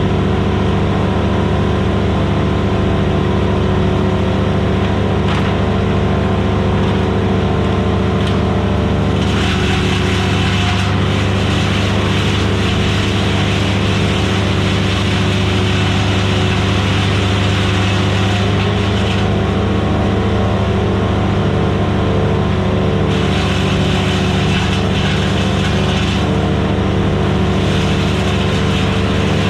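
Vermeer BC1000XL gas wood chipper running steadily at full speed, with long stretches of harsher grinding noise as wood is fed through and chipped, from about a third of the way in and again near the end.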